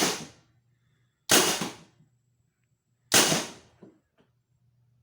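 Three shots from a mag-fed Tippmann paintball marker converted with a Blizzard less-lethal kit, each a sharp crack with a short fading tail, about one and a half seconds apart. Two faint knocks follow the last shot.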